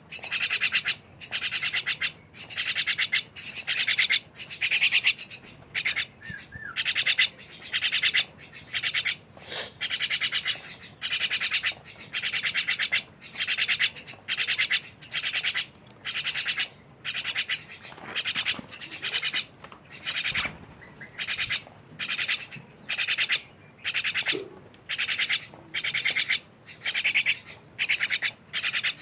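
Javan myna (jalak kebon) calls: harsh, raspy chattering bursts repeated steadily, often in quick twos and threes.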